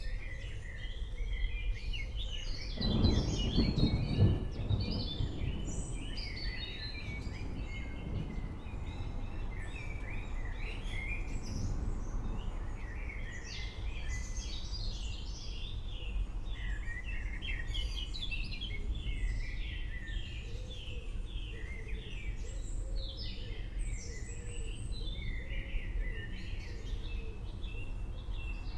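A dense chorus of many birds chirping and singing over a steady low rumble. About three seconds in, a roll of thunder rumbles for a couple of seconds.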